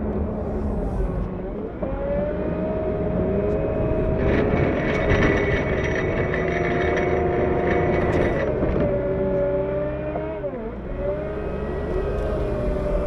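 CAT 908 compact wheel loader's diesel engine revving up and down while plowing snow. A higher whine with rattling joins in for a few seconds while the engine is held at high revs, then the revs drop twice before climbing again.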